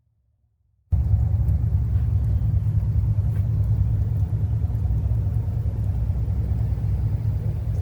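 A vehicle engine running steadily with a deep, low exhaust rumble. It cuts in suddenly about a second in.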